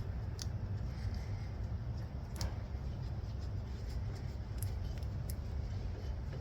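A few sharp metallic clicks and taps of hand tools on metal, spaced a second or two apart, over a steady low hum.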